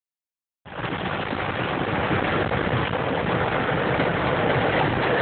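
Steady roar of rushing floodwater, starting abruptly about half a second in.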